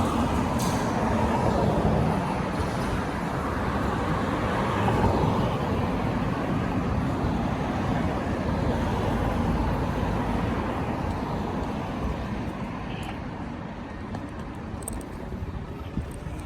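City traffic and road noise picked up by a camera on a moving bicycle: a steady rush heaviest in the low end that slowly gets quieter toward the end.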